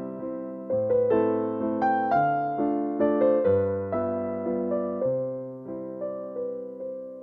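Background music: a gentle piano melody, notes struck one after another and fading away.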